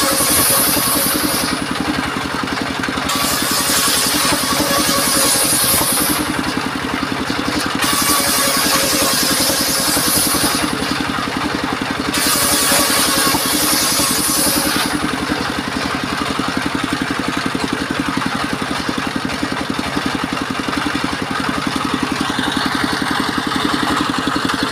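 Engine-driven mobile circular sawmill running steadily. Its blade cuts through timber four times, each cut lasting about two to three seconds, in the first fifteen seconds. After that the saw runs on without cutting.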